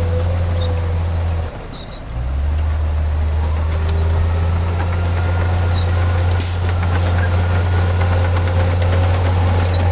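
Heavy diesel engine of an earthmoving machine running steadily with a deep drone, briefly dropping in level about a second and a half in before coming back.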